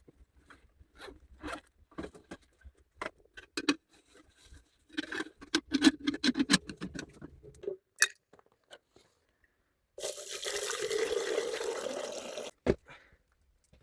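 Water being poured into a container, a steady rush lasting about two and a half seconds from about ten seconds in. Before it come scattered small clicks and knocks, and after it one sharp knock.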